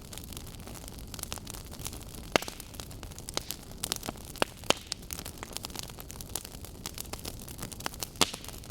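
Burning wood logs crackling and popping: a steady low rustle of flame with many quick sharp snaps, a few louder pops about two and a half, four and a half and eight seconds in.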